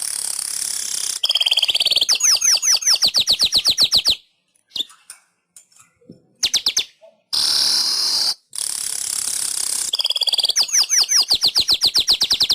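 Manyar weaver bird singing: a harsh, wheezy hiss, then a rapid run of down-slurred chirps. The phrase comes twice, with a pause of a few seconds between.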